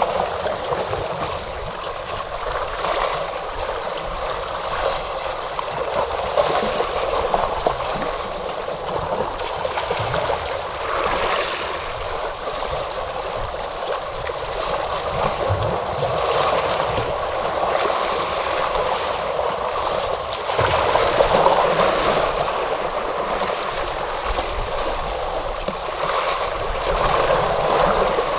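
Ocean waves washing in, a continuous rush of water that swells and eases, with the biggest surges about two-thirds of the way through and again near the end.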